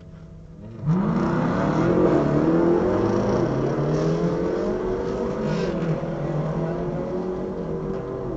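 A drag car's engine fires up about a second in, its pitch climbing as it catches, then runs loudly at a high, wavering idle.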